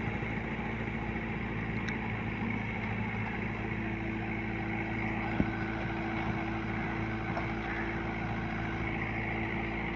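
Engine of a rice-cutting machine running steadily at an even speed, with a single sharp click about five and a half seconds in.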